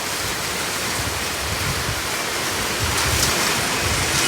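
Heavy rain pouring down in a steady, even hiss, growing slightly louder after about three seconds.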